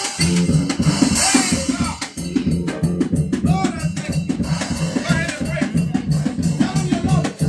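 Live gospel praise-break music: a drum kit playing a fast beat of many quick hits, over a bass line.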